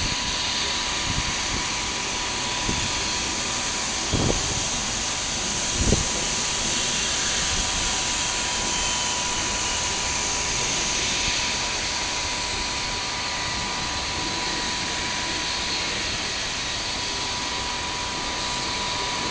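Boeing 757's jet engines running with a steady high hiss and a thin, even whine. Wind thumps on the microphone twice, about four and six seconds in.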